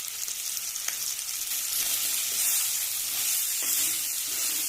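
Chicken pieces sizzling steadily as they dry-fry in oil in a pan, coated with spice powders and freshly added pepper powder, with a few faint clicks.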